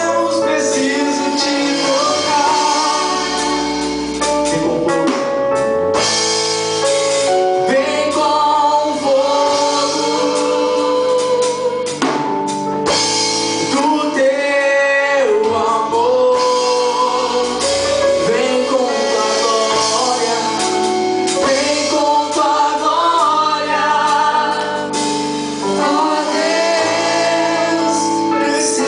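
Gospel song sung by a group of voices with instrumental accompaniment, continuous throughout.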